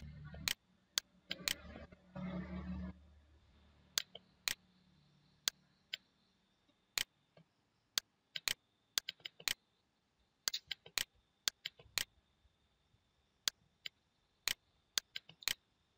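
Computer mouse clicking and scroll-wheel ticking: scattered single clicks and short quick runs of clicks. A muffled rustle with a low hum fills the first three seconds.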